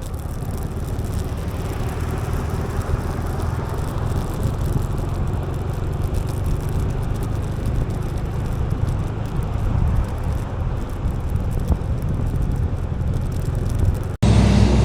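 Motor scooter running at riding speed: a steady low engine hum under road and wind noise. Near the end the sound cuts off abruptly and gives way to a louder, deeper engine rumble.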